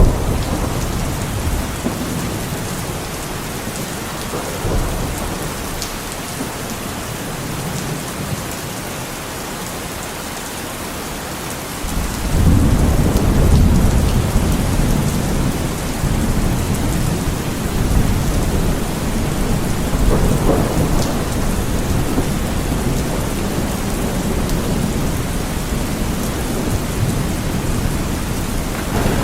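Heavy rain falling steadily, with thunder: a loud, deep rumble breaks in about twelve seconds in and rolls on in swells.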